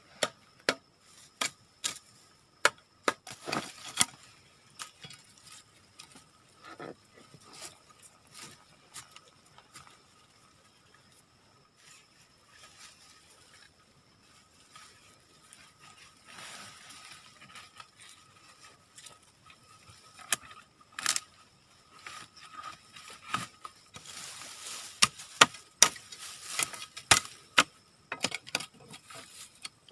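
Irregular sharp clicks, knocks and snaps with stretches of rustling, the sound of hands working sticks and leaves while building a bush shelter. The busiest burst of rustling and knocking comes near the end.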